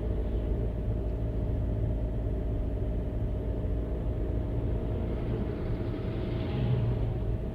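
Steady low rumble of a car's engine and tyres on the road while driving, swelling a little about six seconds in.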